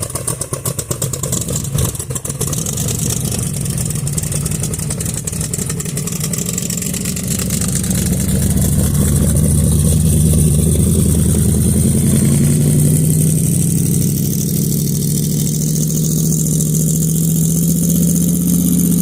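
Engine running through open exhaust headers: at first a rough, fast-pulsing idle, then from about eight seconds in the revs come up and hold steady, louder and slightly rising.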